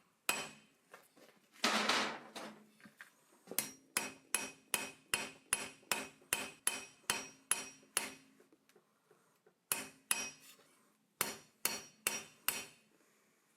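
Hand hammer striking hot iron on an anvil in a steady run of ringing blows, about two a second, with a longer, noisier blow about two seconds in and a short pause before a few more blows near the end.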